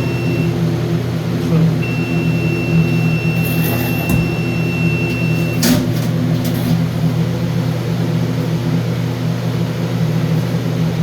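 A steady low mechanical hum throughout. About two seconds in, the alarm keypad's beeper sounds one long, thin, high-pitched beep lasting about four seconds, which ends in a click.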